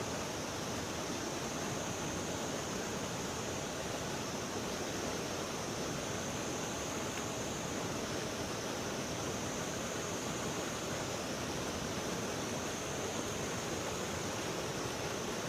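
Steady rushing of river water, an even unbroken wash, with a steady high-pitched drone laid over it.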